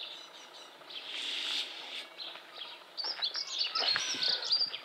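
Small birds chirping and singing, a busy run of quick, high notes starting about three seconds in.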